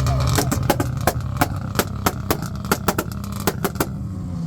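Car engine held at revs with its exhaust popping and banging: a rapid, irregular string of sharp cracks over a steady engine rumble, lasting about three and a half seconds before the pops stop.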